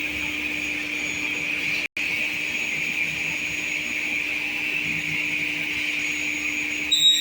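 MJ6132C sliding table panel saw running with no cut under way, a steady whir with a held hum under it. The sound drops out for an instant about two seconds in, and a higher, sharper tone joins just before the end.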